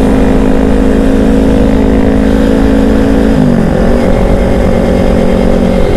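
Yamaha R25 parallel-twin engine running at a steady speed through a DX Generation Undertail dual-silencer exhaust with no dB killer fitted, heard while riding over a low rumble of wind on the microphone. About three and a half seconds in the engine note dips, then climbs back, as at a gear change.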